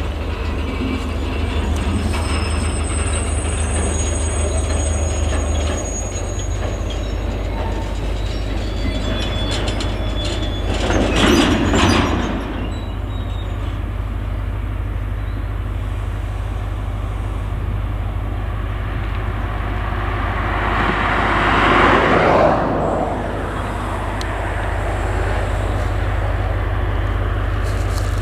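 A freight train of covered sliding-wall wagons rolls past, wheels running steadily on the rails, with a thin high wheel squeal in the first few seconds. Its mid-train DB V90 (class 290/294) diesel-hydraulic locomotive passes about halfway through. The sound swells louder twice, near the middle and about three-quarters through.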